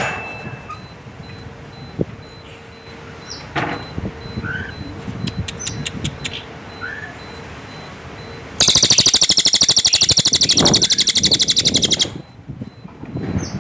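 Cililin bird calling: short, scattered chirps, then a loud, very fast buzzing trill lasting about three and a half seconds.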